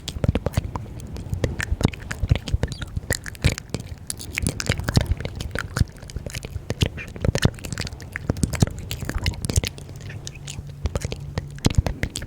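ASMR mouth sounds close to the microphone: rapid, irregular wet clicks and smacks of the lips and tongue, several a second.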